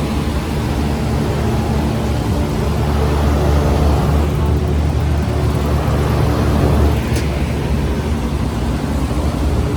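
Large Trane commercial air-conditioning condensing units running: a loud, steady low hum of compressors and condenser fans, with a single sharp click about seven seconds in.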